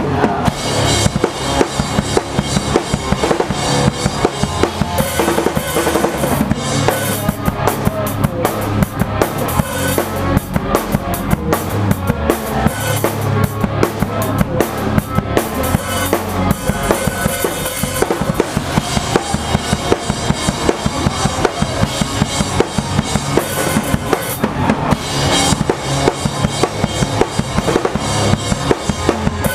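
Pop-punk band playing live, with the drum kit loud and up front: bass drum and snare driving a fast, steady beat, and cymbal wash swelling in and out.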